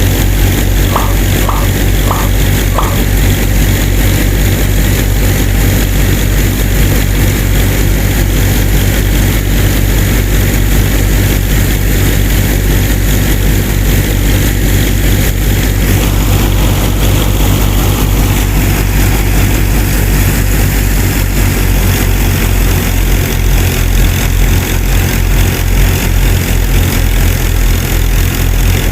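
A small engine running steadily at about idle, a continuous low even running sound. A few short high notes sound in the first three seconds.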